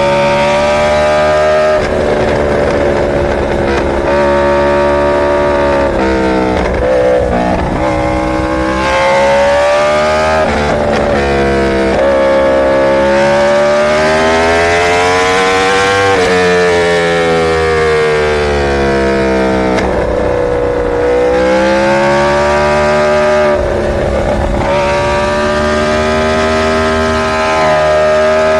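Inline-four superbike engine revving hard, its pitch climbing and falling again and again, with sharp drops every few seconds.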